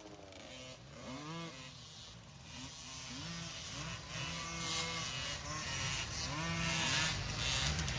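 Several small 50cc two-stroke youth dirt bikes revving, their engine pitch rising and falling as the riders work the throttle. They grow steadily louder as they come closer.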